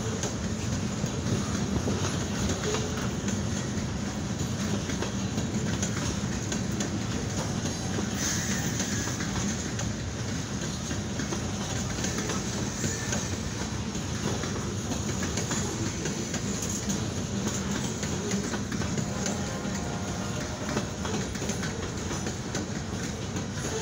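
Boxcars of a DeQueen Eastern Railroad freight train rolling past, with steady wheel-on-rail noise and clatter.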